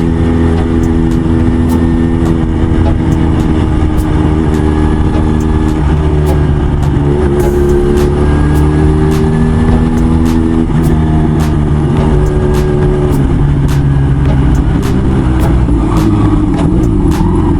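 Motorcycle engine running while riding, its pitch falling and rising about seven seconds in and again about twelve seconds in as the speed changes, over a steady low rumble.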